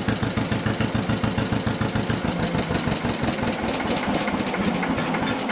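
1955 John Deere 40S two-cylinder tractor engine idling, its firing pulses coming as a fast, even beat.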